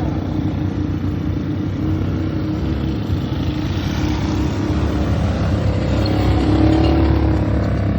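Automatic ATV engine running steadily under throttle while riding, getting a little louder about three-quarters of the way through.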